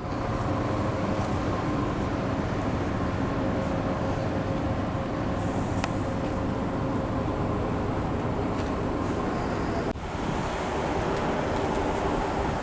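Tobu Skytree Line electric train running at speed: steady wheel-on-rail noise with a faint steady hum over it. The sound drops out briefly about ten seconds in.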